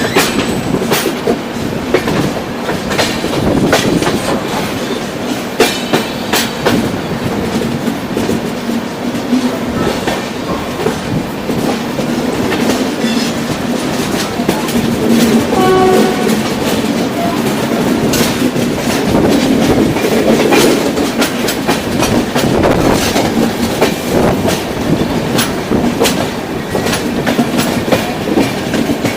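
Passenger express train running on the rails, heard from aboard: a steady rumble with repeated clicks of the wheels over rail joints.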